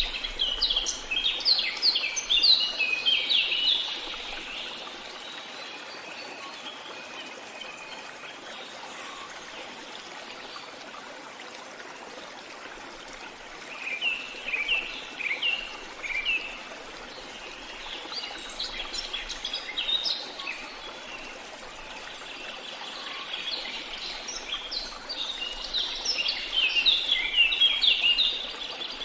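Songbirds singing in bursts of quick chirping phrases, at the start, around the middle and again near the end, over the steady trickle of a stream.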